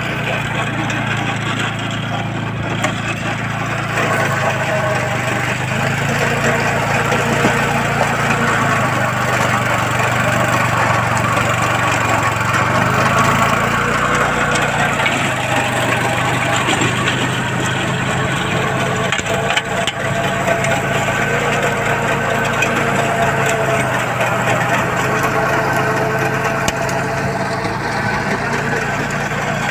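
Swaraj CoDe small tractor's engine running steadily, its pitch shifting a little now and then.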